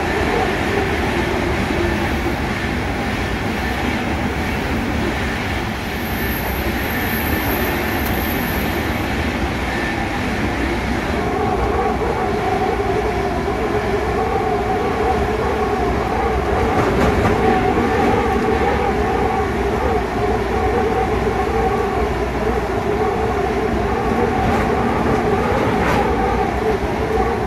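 Passenger train running on the rails, heard from inside the rear carriage: a continuous rumble of wheels on track. A steady hum at two pitches joins about eleven seconds in, with a few faint clicks of wheels over rail joints.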